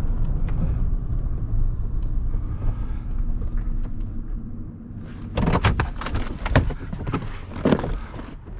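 Truck running with a steady low rumble, then several sharp knocks and clatters in the second half.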